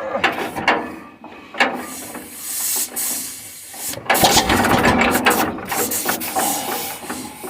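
Mechanical ratcheting and clanking from a tractor being worked by hand, growing louder and heavier from about halfway through.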